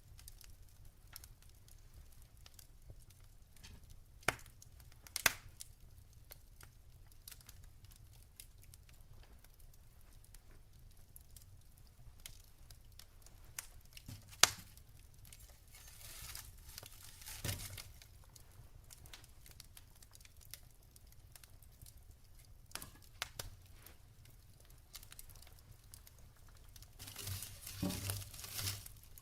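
Wood fire crackling in a fireplace: scattered small clicks, with sharp pops about 4, 5 and 14 seconds in, and denser flurries of crackling around 16 seconds and near the end.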